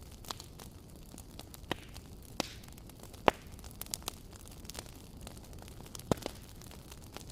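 Wood fire burning, with irregular sharp crackles and pops over a low steady hiss and rumble; the loudest pop comes about halfway through.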